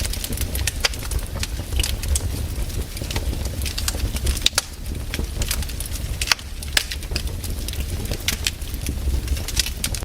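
Wood fire in a fireplace crackling: irregular sharp pops and snaps, a few of them louder, over a steady low rumble.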